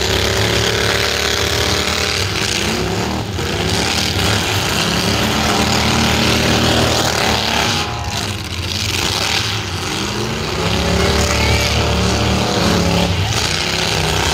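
Several full-size demolition derby cars' engines revving hard, the pitch rising and falling again and again.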